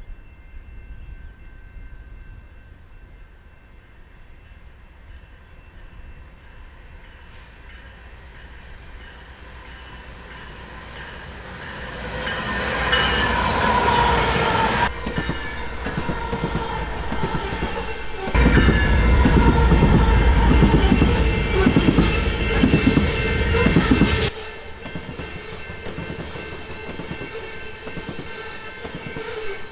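BNSF diesel freight train approaching and passing, its horn sounding a chord of steady tones as it nears. This gives way to a loud low rumble of the locomotives and cars going by, with clicking from the wheels over the rail joints. The level jumps suddenly a few times.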